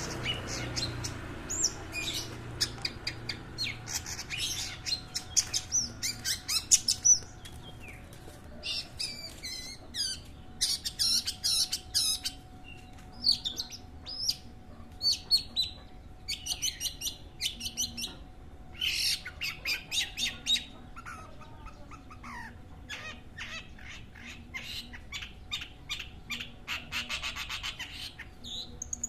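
Long-tailed shrike (cendet) singing: a run of short, varied, high-pitched chattering phrases, with a dense rapid trill near the end.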